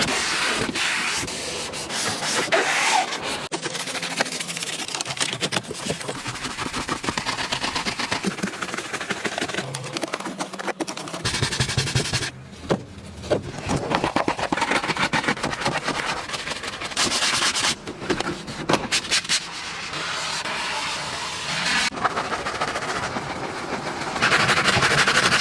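Scrubbing and rubbing sounds of car cleaning, brush or cloth strokes worked over a surface in quick repeated passes. They come in several segments that change abruptly, a few times over.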